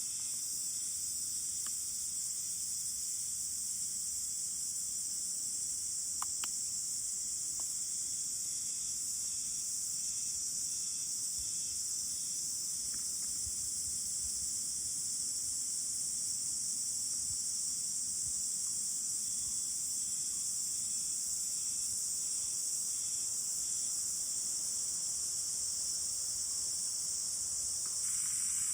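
A steady, high-pitched chorus of insects, unbroken throughout, with a few faint clicks about six seconds in.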